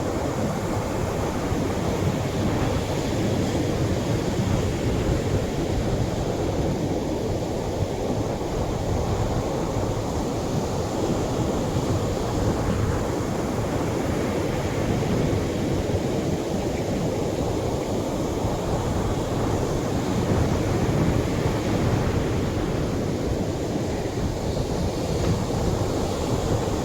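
Atlantic surf washing onto a beach: a steady, deep rush of breaking waves with gentle slow swells and no single crash standing out.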